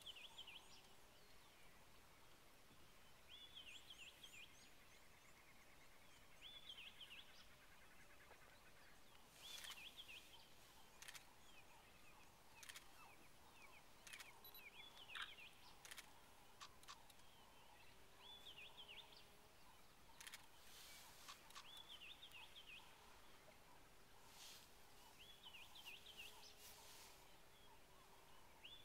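Faint bird calls, short chirping phrases repeated every few seconds, over quiet bush background, with scattered sharp clicks.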